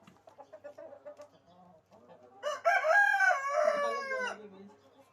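A rooster crowing once, a loud two-second crow that starts about halfway through.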